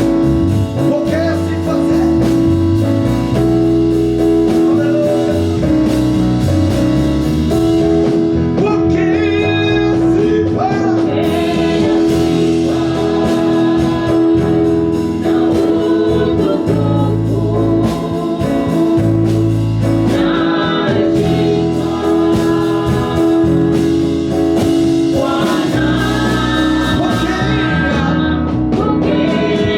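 Gospel praise-and-worship music: voices singing over instrumental backing, with sustained held chords and a bass line.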